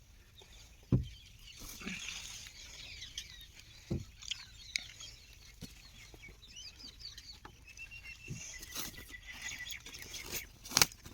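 Scattered knocks and clatter from the power weeder and its packaging being handled, the loudest about a second in and near the end, with birds calling throughout.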